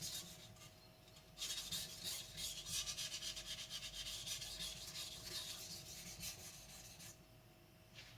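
Blue carbon steel gyuto blade scraping back and forth on a wet Naniwa whetstone in quick repeated sharpening strokes. A short stroke comes first, then a pause of about a second, then a steady run of strokes for about six seconds that stops a second before the end.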